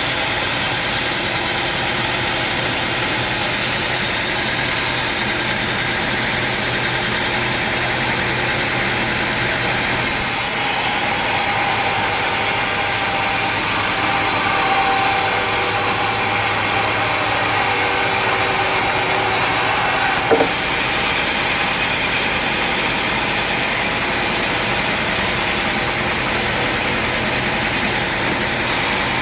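Sawmill machinery running steadily. About a third of the way in, a brighter, higher sound with a steady whine joins for about ten seconds, typical of a saw cutting through wood. It stops with a short sharp knock.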